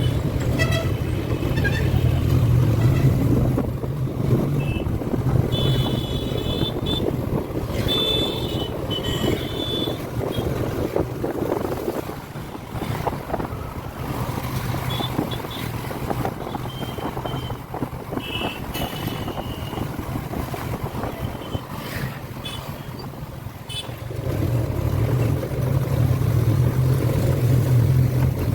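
Motorcycle riding through road traffic: a steady low engine hum, with wind rushing over the microphone, and several short horn toots in the middle stretch.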